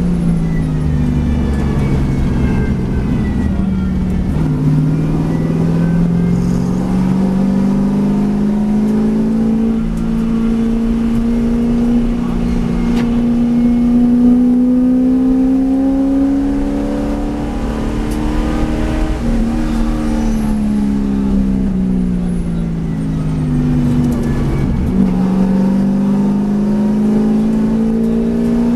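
V8 race car engine running hard. Its revs climb slowly for about fifteen seconds, drop over several seconds, then climb again near the end.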